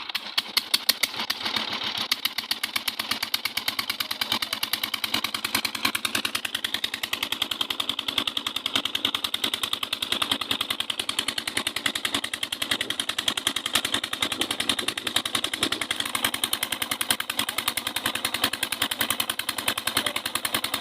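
A 480 tractor's engine cuts in suddenly and runs steadily, its firing heard as a fast, even knock, with a slight rise in pitch a few seconds in.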